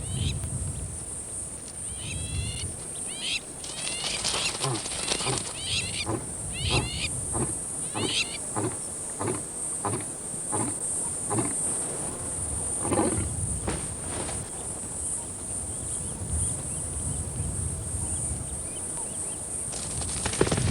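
Wild animal sounds: a bird repeats short chirping phrases about once a second, while a run of short animal grunts or calls goes on, over a steady high hiss.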